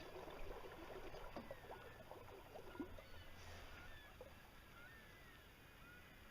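Near silence on the water: faint sounds of water and a few light knocks around a small sailboat, with several faint short bird chirps.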